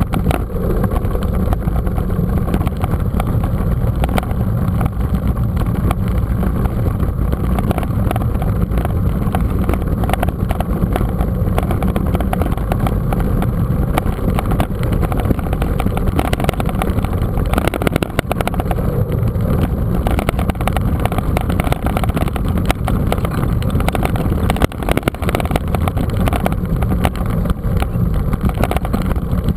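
Steady, loud low rumble of wind and rolling noise on the microphone of a camera riding along on a mountain bike, with frequent small knocks and rattles.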